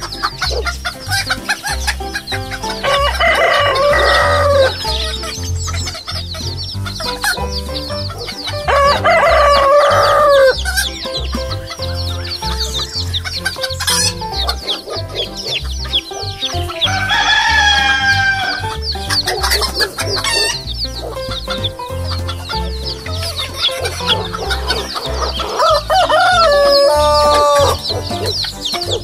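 Rooster crowing four times, each crow about two seconds long, over background music with a steady beat.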